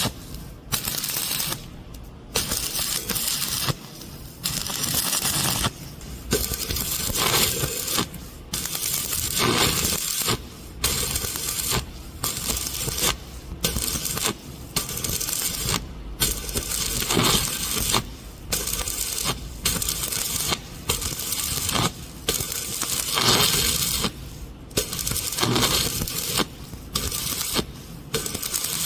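Stick (shielded metal arc) welding on a pipe joint: a steady crackling hiss from the arc that breaks off briefly every second or two.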